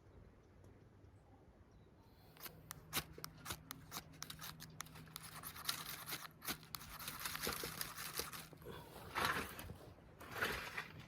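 Rustling and crinkling with many sharp clicks and snaps, starting about two seconds in: tent fabric and gear being handled while pitching a BUNDOK Solo Dome tent.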